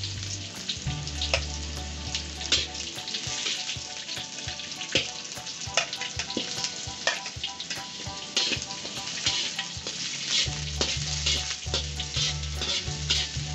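Sliced onions and curry leaves sizzling as they fry in hot oil in a wok, with a metal spatula scraping and clicking against the pan as they are stirred.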